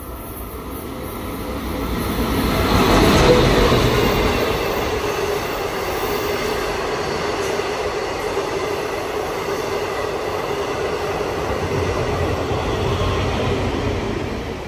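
LIRR diesel push-pull train passing close by: noise swells to its loudest about three seconds in as the lead bilevel coach arrives, then the coaches roll past with a steady rumble and a faint steady tone underneath. The diesel locomotive pushing at the rear comes past near the end.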